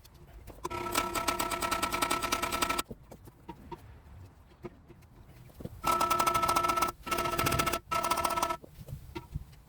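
A power tool running in four bursts, one long one of about two seconds and then three short ones, each a steady pitched buzz made of rapid hammering pulses, as it works to turn a stuck part.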